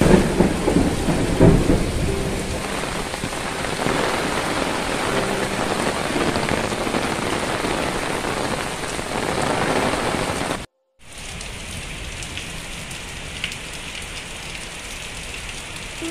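Heavy rain pouring steadily onto the street and roofs, with low rumbles in the first couple of seconds. It cuts out for a moment about ten seconds in and comes back as a quieter, even rain hiss with the odd drip.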